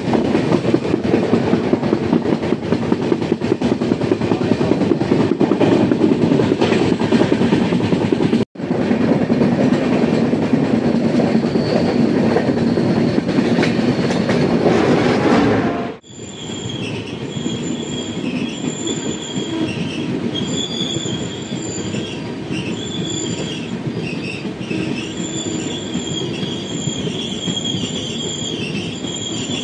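Express passenger train running on the rails, a loud steady rumble of wheels and coaches. After a sudden cut about halfway it runs quieter, with a high, wavering wheel squeal coming and going over the rumble.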